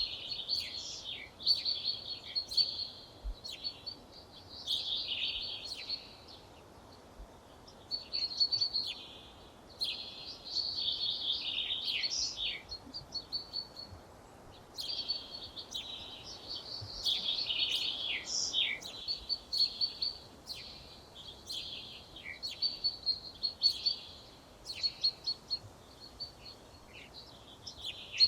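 Songbird singing: varied high-pitched phrases a second or two long, separated by short pauses, over faint background noise.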